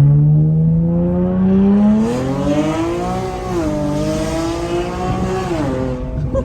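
Car with shorty headers, resonated test pipes and a single-exit Tomei exhaust accelerating hard. The exhaust note climbs steadily for about two seconds, then runs high and raspy with a brief dip near the middle, and falls away near the end.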